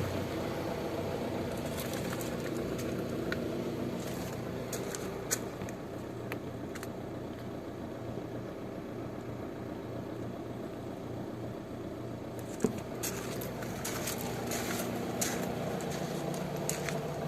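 A steady machine hum, an engine or motor running, with scattered light clicks and a single sharper knock near the end.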